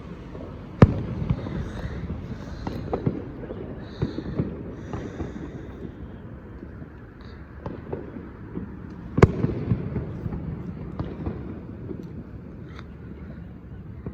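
Fireworks going off: two loud bangs about eight seconds apart, each followed by a rumbling echo and crackling, with smaller pops and crackles between them.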